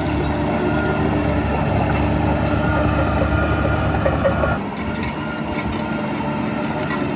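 Heavy diesel earthmoving machinery running under load with a deep rumble. The rumble drops sharply about four and a half seconds in as the engine eases off.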